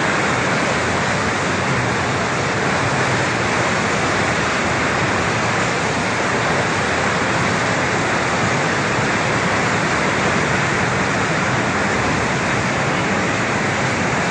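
Steady loud rush of floodwater pouring through a city street in heavy rain.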